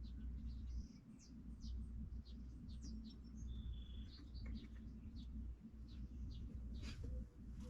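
Small birds chirping repeatedly in short high notes over a faint steady low rumble.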